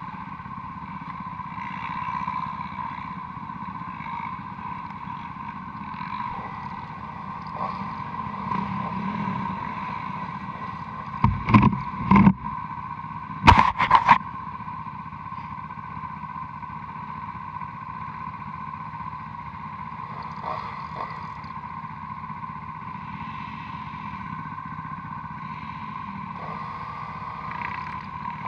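Honda Transalp motorcycle engine running steadily as the bike is ridden, with two quick groups of loud knocks about halfway through.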